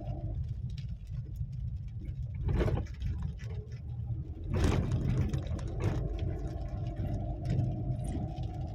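A motor vehicle's engine running on a muddy, waterlogged road, with a steady low rumble and a steady hum. Two louder rushes of noise come about two and a half and four and a half seconds in.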